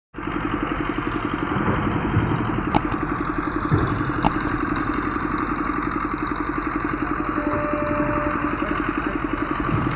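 Engine idling steadily with an even, fast pulsing beat, with two sharp clicks about three and four seconds in.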